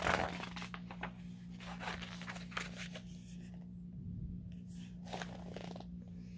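Paper rustling in a few short spells as the pages of a picture book are handled and turned, over a faint steady low hum.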